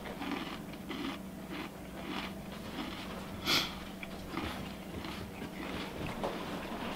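Close-up chewing of a mouthful of crunchy cereal in milk: small crisp crunches throughout, with one louder, noisier burst about three and a half seconds in. A steady low hum runs underneath.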